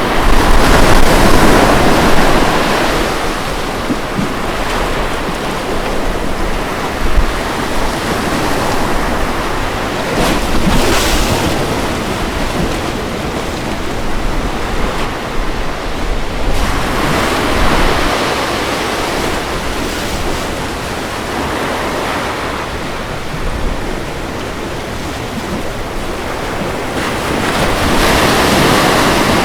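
Ocean waves breaking and washing on a beach in a steady rush of surf, swelling with louder breakers near the start, around ten seconds in, around seventeen seconds in and near the end.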